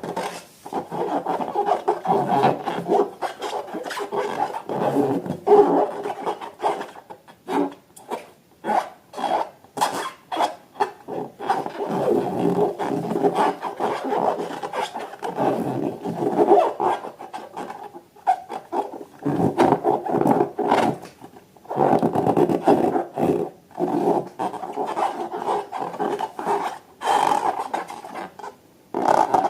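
Rubber balloons being rubbed and squeezed by hand, a rasping rub in uneven strokes with short breaks.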